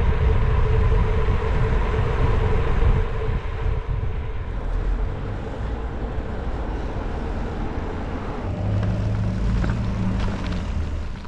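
A motor vehicle running with a steady low rumble and hum. About eight and a half seconds in, the engine note changes to a lower, steadier drone.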